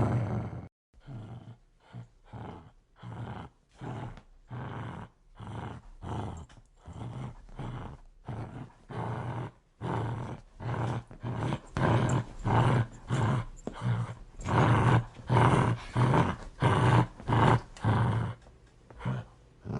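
A dog growling in an unbroken run of rough pulses, about two a second, with a brief break about a second in. The growl gets louder about halfway through.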